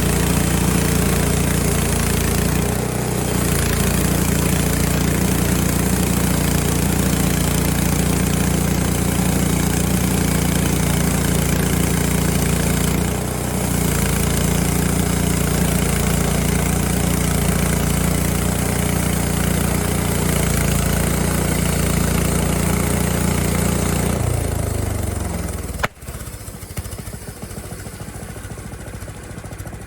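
Portable bandsaw sawmill's small gasoline engine running at high speed, loud and steady, with the band blade cutting lengthwise through a 2-inch board. About 24 seconds in the engine slows down and drops off, followed by a sharp click.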